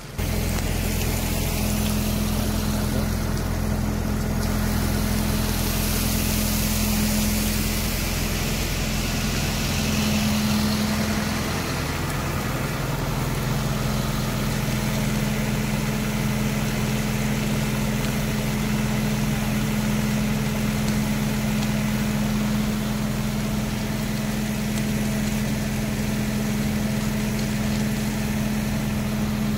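Fire engine's motor running steadily at a constant pitch, with a slight swell about ten seconds in that eases off again.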